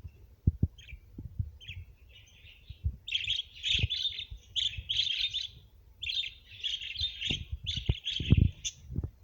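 Budgerigars chattering: fast warbling chirps, sparse at first and near-continuous from about three seconds in. A few low thumps are mixed in, the loudest near the end.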